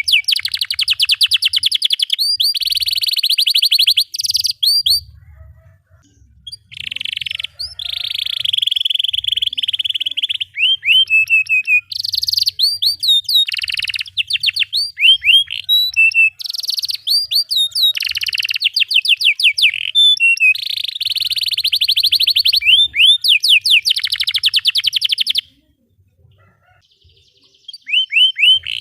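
Domestic canary singing a long song of fast tight rolls and repeated chirps, broken by two pauses of a second or more.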